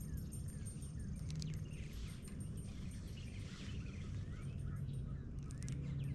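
Small birds chirping repeatedly in short sliding notes over a steady low rumble, with a few sharp clicks about a second in and again near the end.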